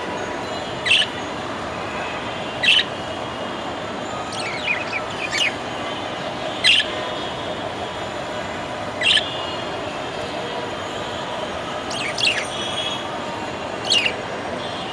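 Budgerigar giving short, sharp chirps, one every second or two with a quick cluster about five seconds in, over a steady background hiss.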